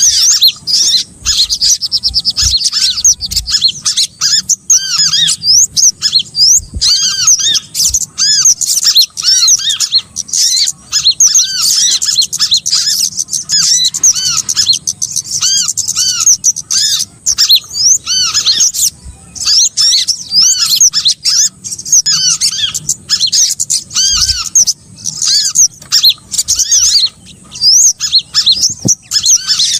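Bird-lure recording of small songbirds calling: many short arched chirps, high-pitched and rapidly repeated and overlapping, played as a continuous attractant to lure small birds such as sunbirds.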